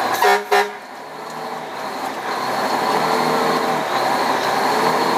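Two short horn blasts from a fire engine, then its engine running steadily.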